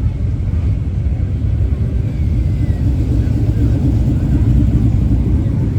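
Steady low rumble of a vehicle engine, with faint voices in the background.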